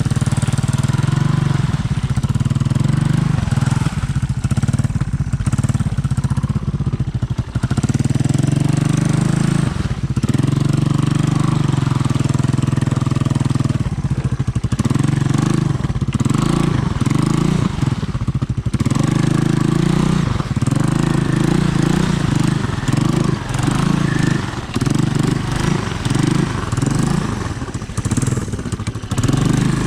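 Honda ATC 200M three-wheeler's single-cylinder four-stroke engine running under load, held steady at first, then with the throttle opened and closed over and over in the second half.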